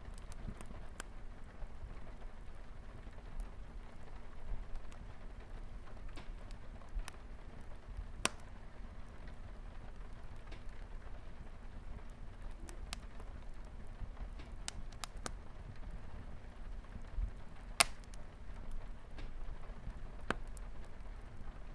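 Wood fire crackling with scattered sharp pops over a steady soft bed of light rain, with one louder pop about three-quarters of the way through.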